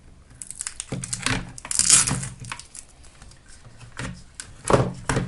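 Hands stripping a battery pack: scattered clicks and knocks with crinkling, a short rasping tear about two seconds in as tape is pulled off, and a louder knock near the end.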